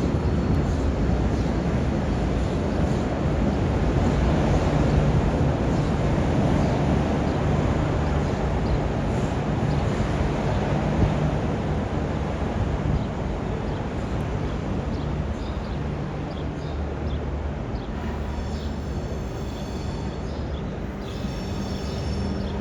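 A train running past with a continuous rumble and steady low hum, easing off gradually over the second half.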